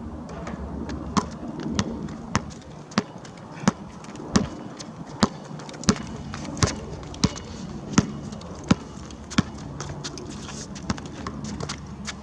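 A basketball being dribbled, a steady run of about a dozen even bounces, roughly three every two seconds, that stops near the end.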